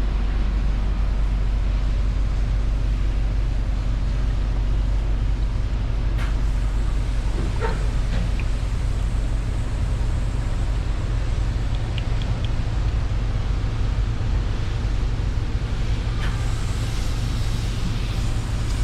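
A vehicle engine idling steadily with a low, even hum, with a few light clicks.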